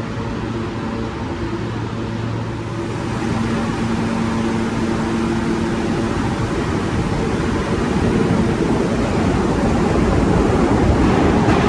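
A New York City Subway L train approaches the station, its rumble growing steadily louder. Steady low hum tones fade out about halfway through as the rumble takes over.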